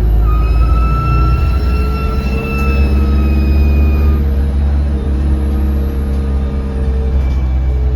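Alexander Dennis Enviro200 bus's diesel engine running under way, with a steady low drone, a high turbo whistle that rises and falls, and a whining tone that fades out about four seconds in. The whistle is the sign of a turbo leak, as the uploader has it.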